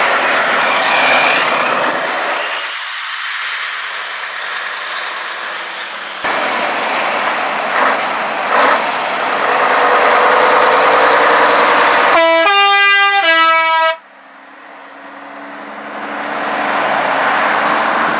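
Heavy trucks driving past. About twelve seconds in, a truck's air horn blows for about two seconds, stepping between a lower and a higher note, and stops abruptly. Another truck then approaches, growing louder.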